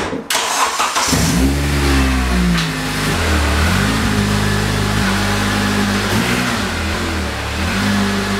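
A car door shuts, then about a second in a 2006 Acura CSX's 2.0-litre four-cylinder engine comes to life and is revved up and down several times as the car pulls out.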